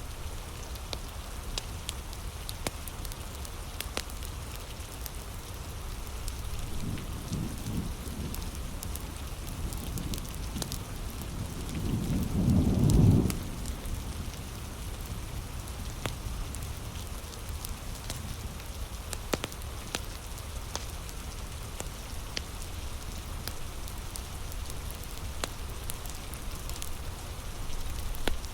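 Steady heavy rain with scattered sharp drop ticks. A low rumble of thunder builds about a quarter of the way in, is loudest near the middle, then stops.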